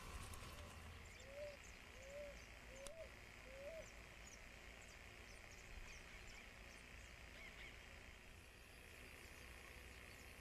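Faint bird calls: five short, low notes, each rising then falling, in an even series over the first four seconds. Faint high chirps and a low hum sit under them.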